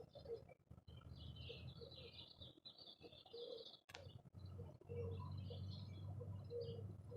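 Small birds at a feeder chirping in quick high twittering runs, with short low dove-like coos repeating in between and a single sharp click about four seconds in.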